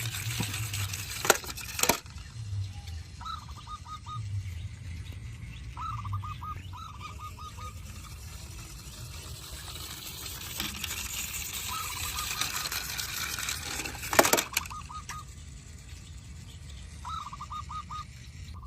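Short bursts of a rapidly repeated call, four or five quick notes each, recurring every few seconds over a steady background hiss, with a few sharp clicks.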